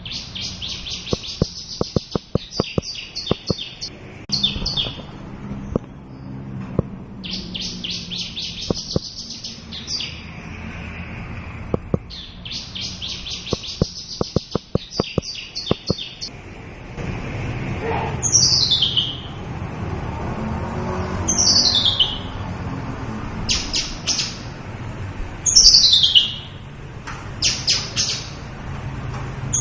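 Javan bushlark singing: bursts of rapid, high trilled phrases lasting a few seconds each, mixed with sharp ticks, then from about halfway a series of downward-sliding whistled notes about every two seconds.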